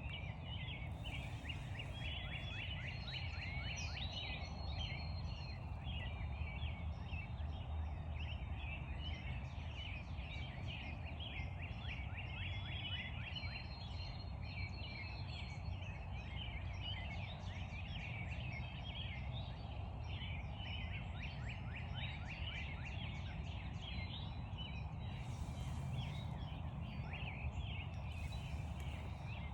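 Dense chorus of many birds chirping and trilling at once, over a steady low background rumble, with a few brief rustles.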